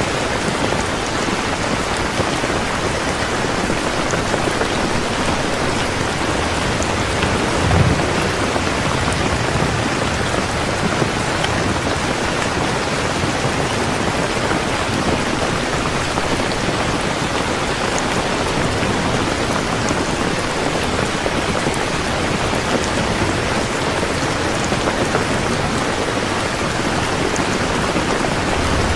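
Heavy rain falling steadily. A short low rumble of thunder comes about eight seconds in, and another begins near the end.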